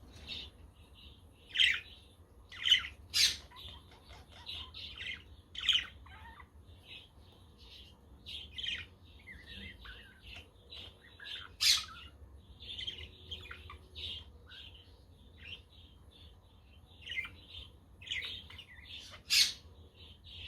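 A flock of budgerigars chattering and chirping continuously, with a handful of louder, sharp squawks scattered through.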